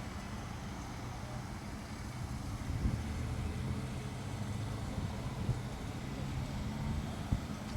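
Steady low rumble of a motor vehicle, with a few faint knocks.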